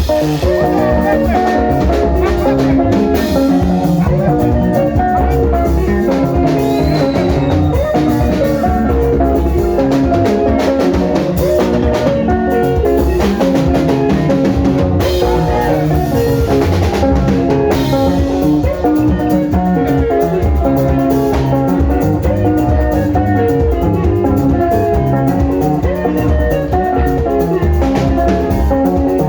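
Instrumental passage of a Zimbabwean sungura band: electric guitars pick quick, repeating interlocking lines over bass and a steady drum kit beat, with no singing.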